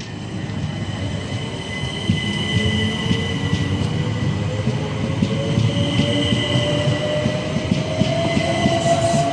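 Electric multiple-unit passenger train running through the station, its motor whine rising slowly in pitch as it gathers speed, over wheel rumble and a steady high-pitched squeal from the rails; it grows louder throughout.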